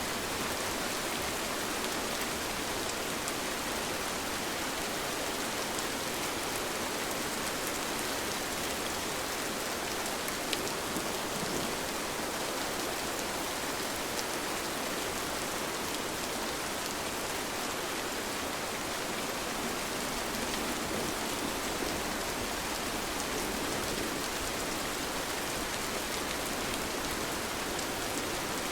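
Steady rain falling, an even hiss with scattered individual drops pattering.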